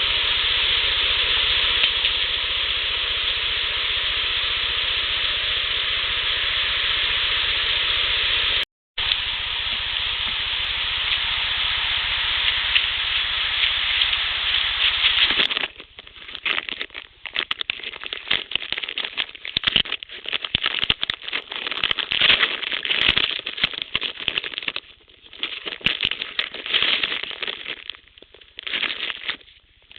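Loud, steady hiss of a heavily amplified outdoor recording, cut off briefly about nine seconds in. From about halfway, irregular crackling and crinkling rustles like wrapper material being handled, which the uploader takes for an animal opening wrappers.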